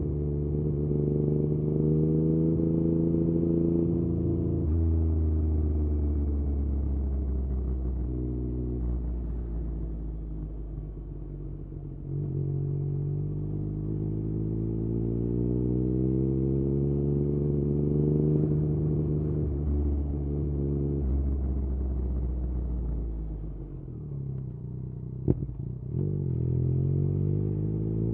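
Yamaha MT-09's three-cylinder engine through an Akrapovič exhaust on the move. It climbs in revs, drops sharply at a gear change about five seconds in, then eases off and builds again in long, slow swells. A single sharp click comes near the end.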